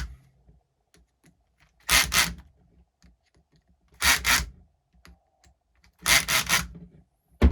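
Milwaukee cordless drill on a low clutch setting driving screws into a plastic RC truck chassis in short bursts, about every two seconds. A sharp click comes near the end.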